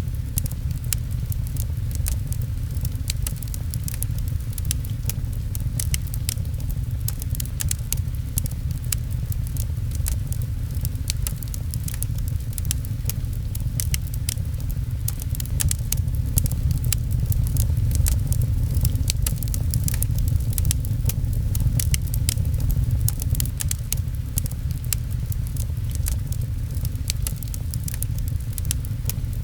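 Wood fire crackling with quick, irregular pops, over a steady low rumble and the patter of rain on a window.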